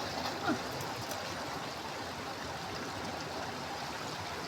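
Stream water flowing steadily, an even rushing babble. A short falling cry cuts in once about half a second in.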